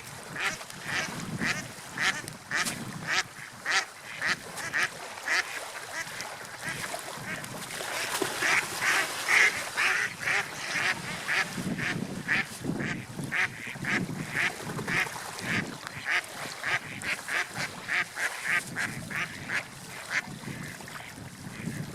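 Seagulls calling: a steady run of short, repeated calls, about one to two a second, thickest and loudest about halfway through, over a low background rumble.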